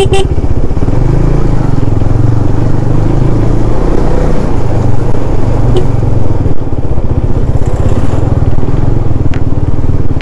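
KTM 390 Duke's single-cylinder engine running steadily as the motorcycle rides along, with a short horn toot ending right at the start.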